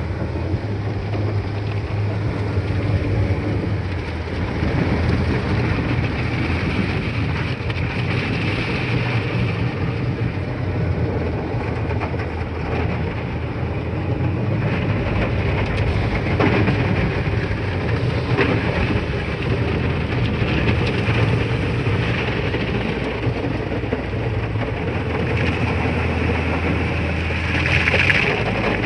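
Steady noise heard from inside a car at a car wash: water spraying over the body, with a constant low hum of running machinery. The hum changes near the end as a louder hiss of spray comes in.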